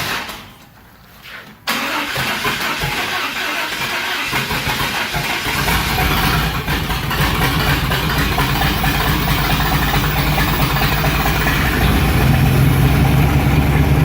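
Pickup truck's swapped-in V8 being started: after a brief lull the starter cranks it, from about two seconds in, and a few seconds later it catches and settles into a steady, somewhat louder idle. The engine is running poorly after a computer reset.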